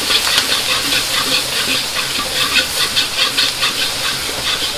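Liver and Japanese leek sizzling in a hot wok over a gas flame as a ladle turns them through the sauce: a steady hiss thick with small crackles.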